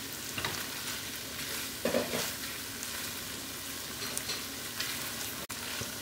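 Chicken, onion and sauces sizzling steadily in a nonstick frying pan, with a few scraping strokes of a silicone spatula stirring the mixture.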